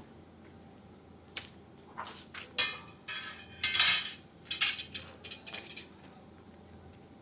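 Crockery and cutlery clattering: a run of sharp clinks and knocks over a few seconds, loudest about halfway through.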